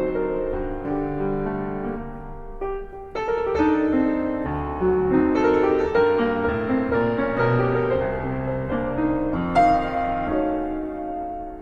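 Background piano music: a slow sequence of held notes and chords.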